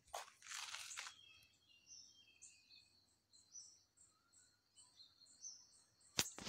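Small birds chirping faintly in the background, a run of short high notes repeated every fraction of a second. A couple of brief noisy bursts come in the first second, and a sharp click comes near the end.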